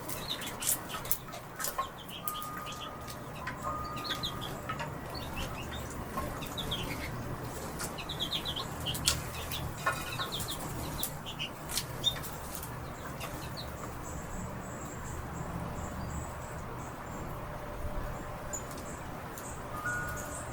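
Small feeder birds chirping and calling in quick short notes, with scattered sharp clicks and wing flutters. A couple of brief held chime tones sound about two and four seconds in.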